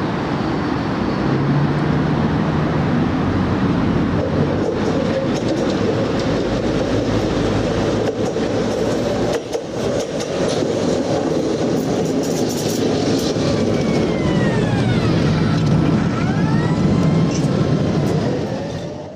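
A rail vehicle running along the track, a loud, steady rumble of wheels on rails. In the last few seconds there are several high squeals that rise and fall.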